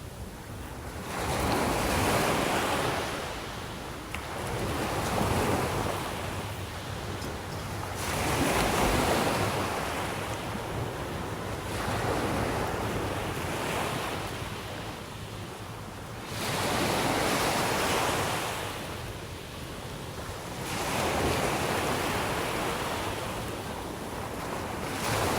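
Sea waves breaking on the shore, each wash swelling and fading every three to four seconds.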